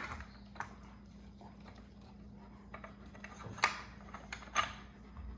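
A few light knocks and clicks of parts being handled as a chair-caster wheel is test-fitted to a pit bike with spacers, over a faint steady hum. The two loudest knocks come a little after the middle and about a second later.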